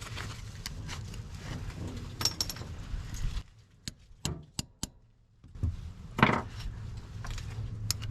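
Metal tools clinking and tapping: a bolt-extractor socket being tried on a broken exhaust manifold bolt, with a run of sharp clicks in the middle and a louder knock about six seconds in.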